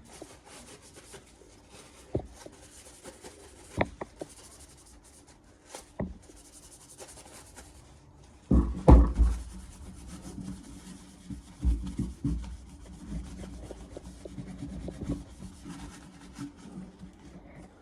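Hand rubbing and scrubbing at surface rust on a small carbon-steel axe blade, with scattered light knocks and a louder clatter about nine seconds in.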